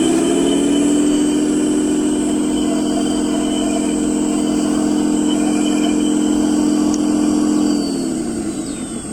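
Motor of an RC construction model running loud and steady at one pitch, then winding down about eight seconds in.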